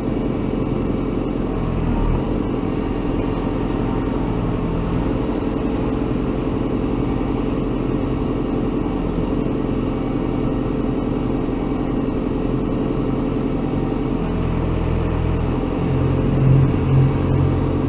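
Diesel engine of heavy construction machinery running steadily. Near the end its low drone grows louder, with two brief surges as it takes on load.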